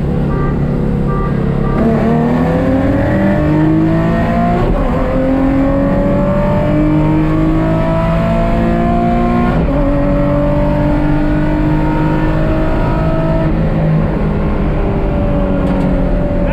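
Nissan VQ35DE V6 engine at full throttle in a pull race: it holds steady for a moment, launches, and climbs in pitch through the gears, with a shift about four and a half seconds in and another nearly ten seconds in. Near the end the revs drop as it lifts off and it settles to a steady lower note.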